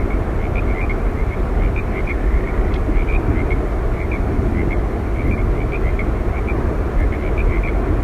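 Steady deep rush of Yosemite Falls, falling water pounding without a break. Short high chirps come and go irregularly over it.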